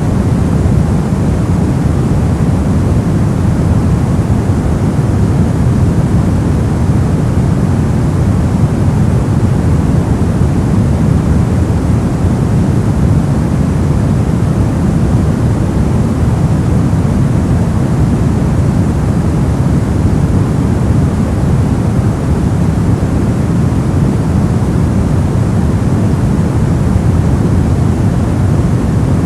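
Continuous masking noise sold as white noise, a steady, even rush heavier in the low end than the high, with no changes or events.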